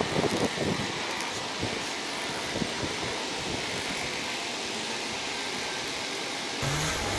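Volvo ECR145EL excavator working, a steady mechanical hiss. Its engine note comes up and shifts in pitch near the end.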